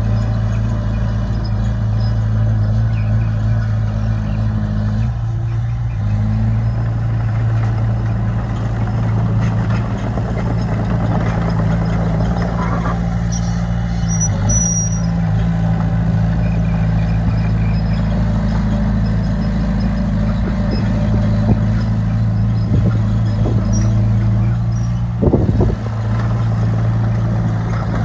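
Heavy construction machine's diesel engine running steadily under load, its pitch shifting slightly a few times.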